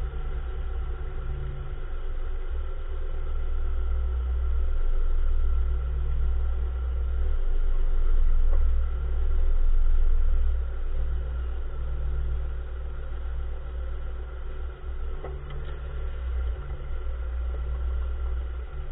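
2014 Nissan March running, a steady low rumble that swells and eases, with two faint short knocks, one about eight seconds in and one about fifteen seconds in. The knocks are plausibly the front-wheel clunk whose cause the owner is trying to identify.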